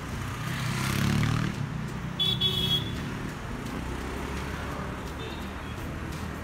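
Street traffic rumbling steadily, with a vehicle passing close about a second in and a short high-pitched horn toot about two seconds in.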